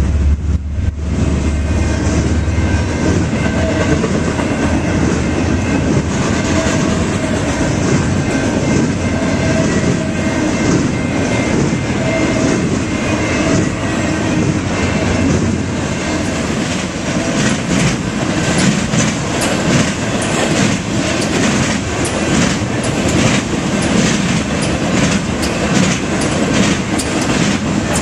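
BNSF intermodal freight train rolling past at speed: a heavy low rumble fades in the first few seconds, then the cars keep passing with a steady rush of wheels on rail and rapid clicking over rail joints.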